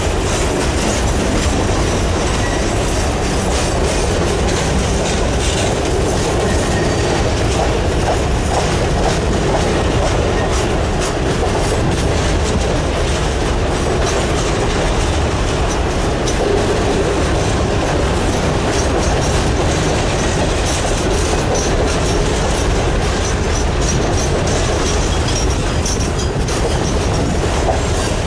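Norfolk Southern coal train's open-top coal cars rolling past steadily: a continuous rumble of steel wheels on rail, with rapid clicks over the rail joints. A faint high wheel squeal comes in now and then.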